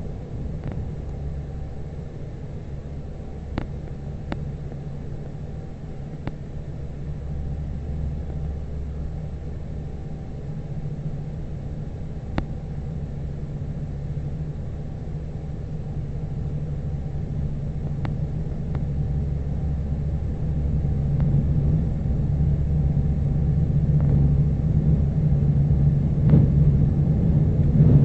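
Airliner cabin noise during descent: a steady low rumble of engines and airflow with a hum underneath, growing louder in the last several seconds, with a few faint clicks.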